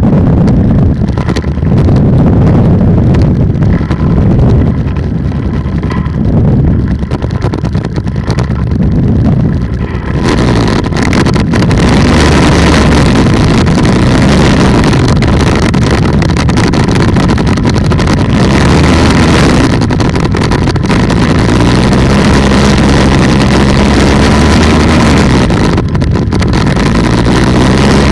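Polini 190 two-stroke engine and propeller of an ultralight trike running steadily, with wind buffeting the microphone. About ten seconds in, it gets louder and harsher and stays that way.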